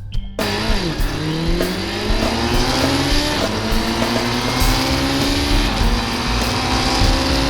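Classic racing sidecar outfit's engine heard on board at speed. Its pitch dips briefly near the start, then climbs steadily as it accelerates.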